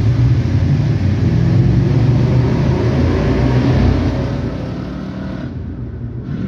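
1997 Chevy Suburban's 350 Vortec V8 with the muffler deleted, its open exhaust loud under acceleration in a tunnel, the pitch climbing slightly; about four seconds in the sound drops as the engine eases off.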